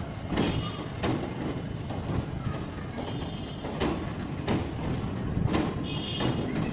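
Indian Railways passenger coaches rolling past with a steady rumble, the wheels clacking over rail joints again and again, some clacks in quick pairs. A faint, brief high-pitched squeal comes from the wheels now and then.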